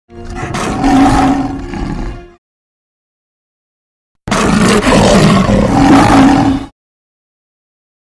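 Two lion roars from a film sound-effect edit, each about two and a half seconds long, with dead silence between them. The first swells and then fades away. The second starts abruptly, stays loud and cuts off suddenly.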